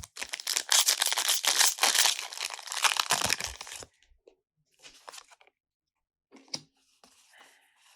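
Foil Pokémon booster pack wrapper being torn open, a dense crinkling tear lasting about four seconds, followed by scattered soft rustles.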